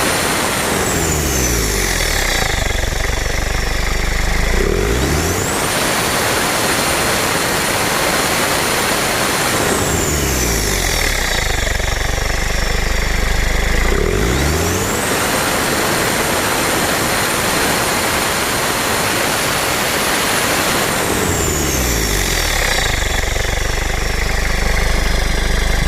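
Isuzu Trooper 3.1 turbo diesel engine revved up and held for several seconds, then dropped back to idle, about three times. Each time, a high-pitched turbo whine rises with the revs, holds steady while the revs are up, and falls away as the engine returns to idle.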